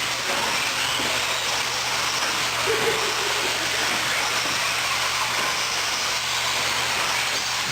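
A pack of 1/10-scale electric 4WD short course RC trucks racing on an indoor track, heard as a steady hiss of motors and tyres, with a low electrical hum under it.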